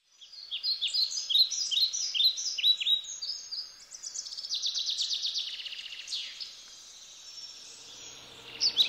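A songbird singing: strings of quick downward-sweeping chirps, a fast trill about halfway through, then a quieter stretch before the chirping starts again near the end.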